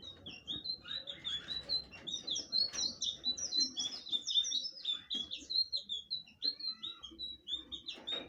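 A blue flycatcher (sikatan biru) singing a fast, unbroken song of short, high, downslurred whistled notes, several a second, with a few lower notes near the end.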